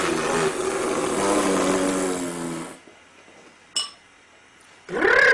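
A person blows a long raspberry, lips buzzing with a rush of breath for about three seconds. A short click follows, and a voice starts up near the end.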